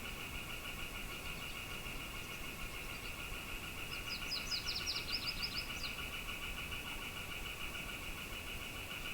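A steady, high, pulsing insect chorus in two pitch bands, with a bird giving a quick run of a dozen or so short high notes about four seconds in.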